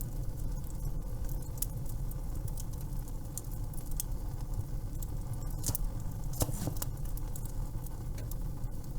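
Wood fire crackling: irregular sharp pops and snaps over a steady low rumble, with a few louder pops a little past halfway.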